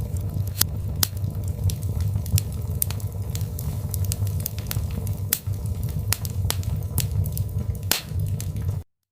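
Birch log fire in a fireplace crackling, with frequent irregular sharp pops over a low steady rumble of the flames. The sound cuts off suddenly near the end.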